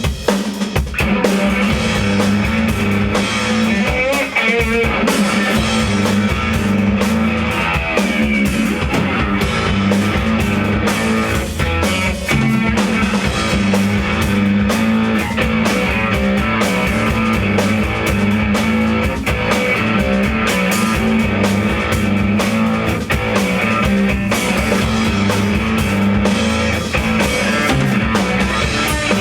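Rock band playing live: distorted electric guitar over a drum kit, loud and continuous.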